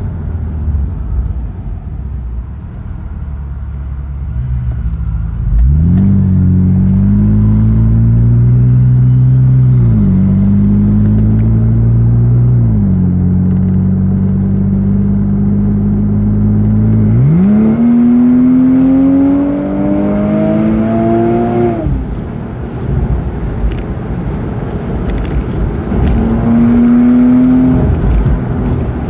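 Car engine heard from inside the cabin, pulling away and accelerating through the gears: after a low rumble the engine note climbs, drops back at each gear change, and climbs again near the end, over steady road and tyre noise.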